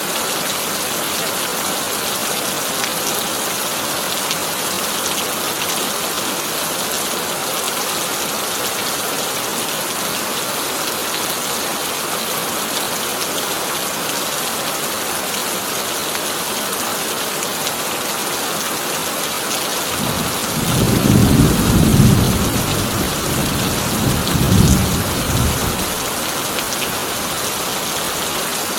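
Heavy rain drumming steadily on a corrugated tin roof. About two-thirds of the way in, a roll of thunder rumbles for several seconds, swelling twice before fading.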